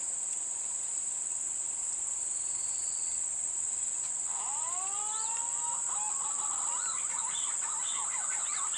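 Steady high-pitched drone of crickets or cicadas, joined about halfway through by a run of rising and falling whistled bird calls that carry on to near the end.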